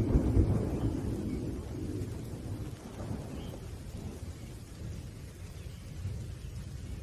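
Thunder rumbling low, loudest in the first second and then slowly dying away, over a faint hiss of rain.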